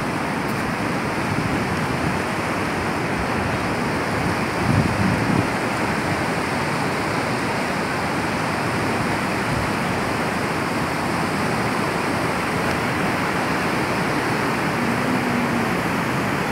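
Ocean surf breaking on a beach: a steady rush of noise that swells a little about five seconds in.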